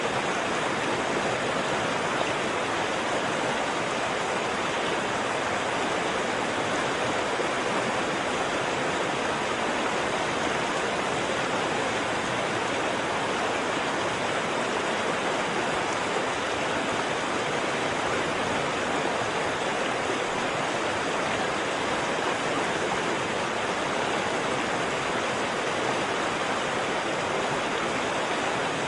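Waterfall: steady rush of falling water.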